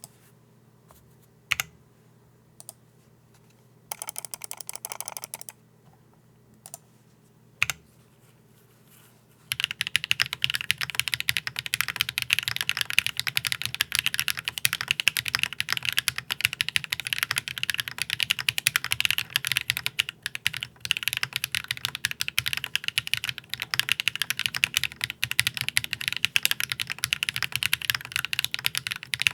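Typing on a custom split ergonomic mechanical keyboard (Bowl Keyboards Compact Ergo: top-mount, aluminium plate, no foam) with HMX Sunset Gleam linear switches and GMK keycaps. First come a few scattered single keystrokes and one short burst, then continuous fast typing from about a third of the way in.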